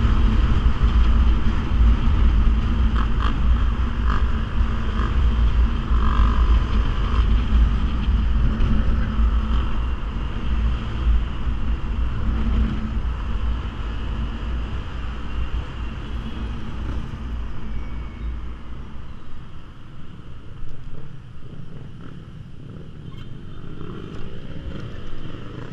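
Small motorcycle under 150 cc being ridden, its engine running steadily under heavy wind rumble on the microphone. The sound grows quieter in the last third.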